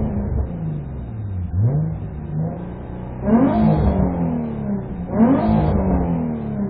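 Nissan 350Z's 3.5-litre V6 blipped in place, heard from inside the cabin: a smaller rev about two seconds in, then two strong revs, each snapping up and sinking back. Fitted with a lightweight flywheel and new clutch, the revs climb quickly, to about 6,000 rpm on the tachometer.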